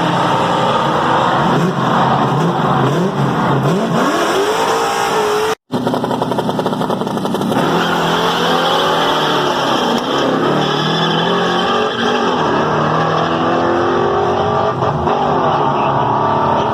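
Muscle car engines revving and accelerating hard, their pitch repeatedly climbing and falling back as they rev and shift. The sound drops out for a moment just over five seconds in.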